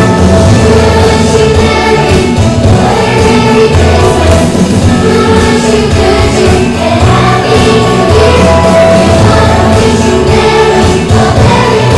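Upbeat Christmas song with a group of voices singing over a band.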